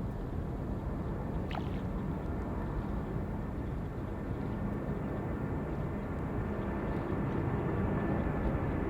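Distant jet airliner engines rumbling steadily, growing slowly louder near the end as a departure gets under way. A brief high falling whistle sounds about a second and a half in.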